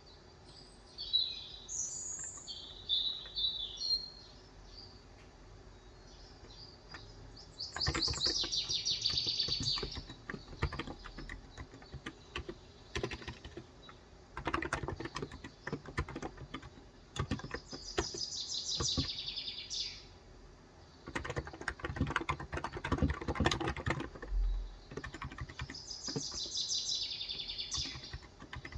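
Typing on a Cox Endeavor electro-capacitive tenkeyless keyboard with 35 g switches, in bursts of rapid key clicks with short pauses between. Birds chirp in quick trills several times over it.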